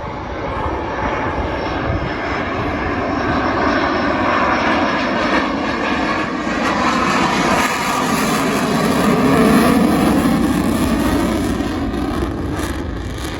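Fixed-wing airplane engine passing overhead, growing louder to its peak about nine to ten seconds in and then easing off.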